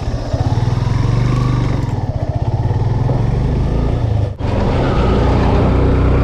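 Yamaha FZ V2 motorcycle's single-cylinder engine running steadily while riding, under wind noise. The sound dips sharply for an instant about four seconds in, then carries on.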